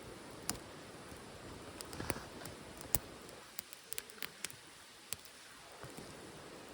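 Wood fire burning in a titanium wood stove. Sharp crackles and pops come at irregular moments over a steady low hiss, with a quick cluster of pops a little past the middle.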